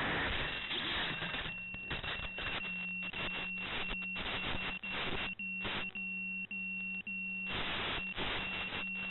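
Rushing noise of the quadcopter's onboard audio fades out over the first second and a half. Then a steady high electronic beep, broken into irregular on-off stretches, sounds over a low hum and crackling static with brief dropouts, typical of an analog video-link feed.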